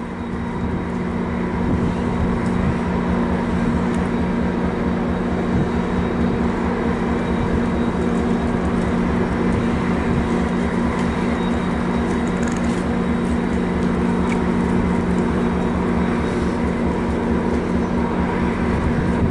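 MARC bilevel commuter train idling while stopped at a station: a steady mechanical hum with two droning tones over a low throb, a little louder after the first couple of seconds.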